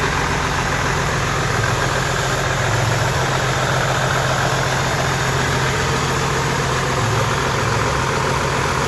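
John Deere 450LC excavator diesel engine idling steadily, warmed up to normal operating temperature.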